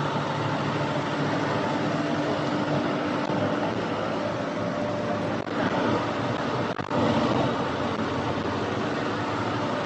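A vehicle engine running steadily, with two brief dropouts about five and a half and seven seconds in.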